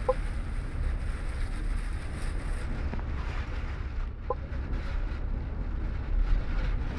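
Steady low rumble inside a MAN double-decker bus on the move, with storm wind buffeting the body. Two brief high squeaks come through, one near the start and one about four seconds in.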